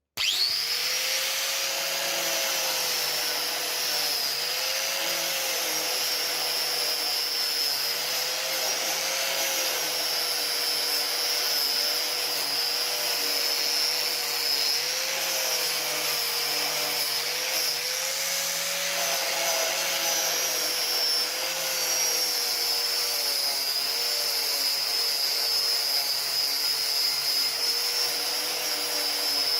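An electric power tool running continuously with a high whine, its pitch wavering slightly as it is worked against metal.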